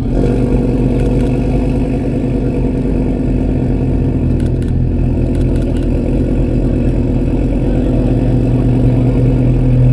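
Car engine running close by at a steady idle, growing a little louder near the end.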